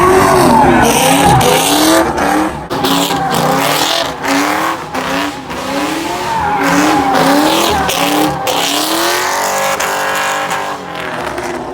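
A car's engine revving over and over in short rising pulses while its tyres squeal, a burnout or drift at full throttle.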